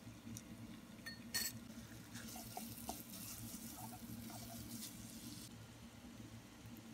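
Minced pork sizzling faintly in a hot frying pan as a wooden spatula breaks it up and scrapes it around, with a sharp clink about a second and a half in; the sizzle fades out about five and a half seconds in. A low steady hum runs underneath.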